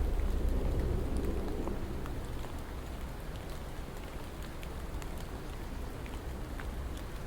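Steady rain falling, with scattered individual drops ticking through it. A low rumble fades away over the first couple of seconds.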